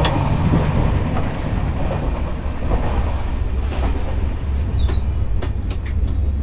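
Moving Indian Railways passenger coach heard from inside: a steady heavy rumble of the wheels on the track, with a few sharp clicks and knocks in the second half.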